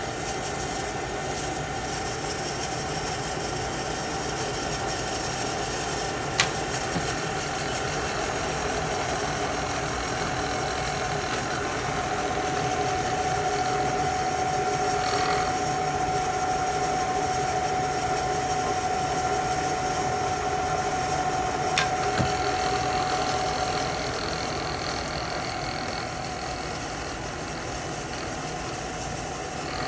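Trak DPM CNC bed mill running under power, its spindle and a feed drive making a steady mechanical hum with a held whining tone. The tone fades out about four-fifths of the way through. Two sharp clicks are heard, one early on and one late.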